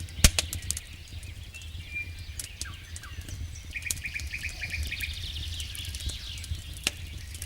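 Wood fire in a fireplace crackling, with sharp irregular pops, the loudest just after the start and another near the end, over a steady low rumble. A quick run of high chirps sounds in the middle.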